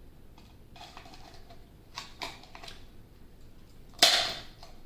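Handheld hole punch clicking through the thin plastic wall of a drink bottle: soft clicks and rustles of the plastic being handled, then one sharp snap of the punch about four seconds in.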